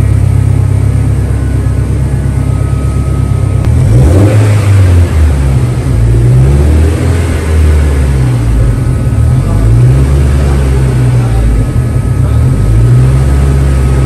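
Turbocharged Honda S2000's four-cylinder engine running on a chassis dyno during tuning. It holds steady, then from about four seconds in its revs rise and fall several times before settling steady again near the end.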